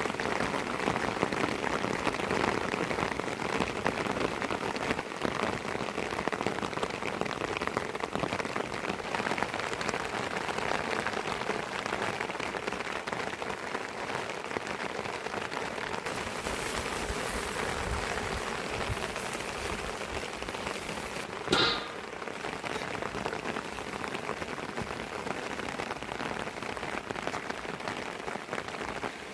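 Steady rain falling, a dense patter. A single sharp knock sounds about two-thirds of the way through.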